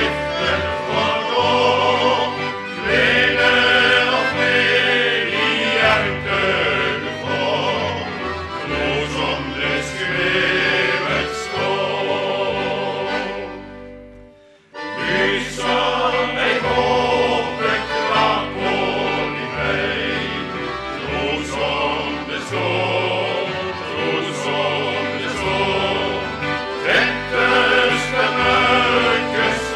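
Vocal group singing a gospel song in harmony over instrumental accompaniment with a steady bass line. The music fades out almost to silence about halfway through, then starts again.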